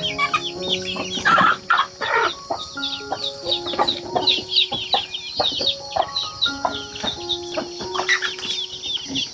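Chickens clucking, with many quick high chirps, over background music that has held notes.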